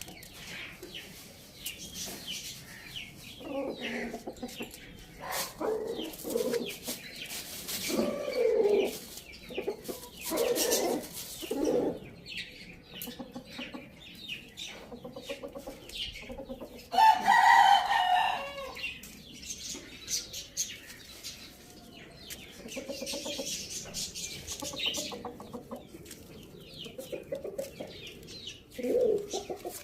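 Chickens clucking on and off in short calls, with one loud, pitched call a little past halfway.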